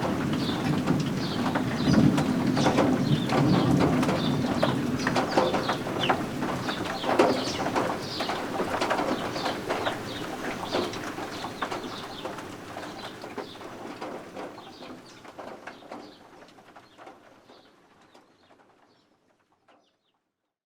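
Baby guinea fowl keets peeping: many short, high chirps over a steady background of rain, the whole fading out gradually to silence.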